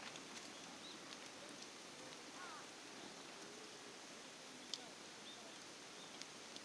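Wood campfire crackling faintly over a steady outdoor hiss, with a few sharp isolated pops, the loudest about five seconds in.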